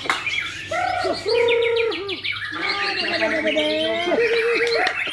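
Several white-rumped shamas (murai batu) singing over one another at a song contest. Their song mixes long fluty whistles with fast runs of high repeated notes.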